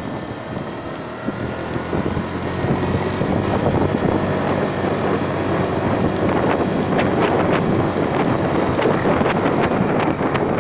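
Motorcycle engine running on the move, with wind buffeting the microphone; it gets louder about two seconds in.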